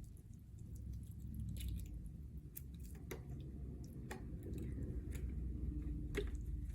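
Close-miked wet, squishy chewing of seafood in butter sauce, with a few sharp mouth clicks every second or so.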